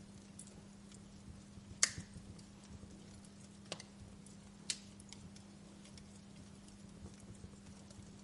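Fire crackling: sparse, irregular pops and snaps, the loudest about two seconds in and two more a couple of seconds later, over a faint hiss and a steady low hum.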